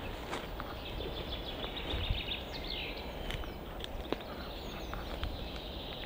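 Woodland birds chirping in a spring forest over a steady outdoor hiss, with a few scattered light clicks.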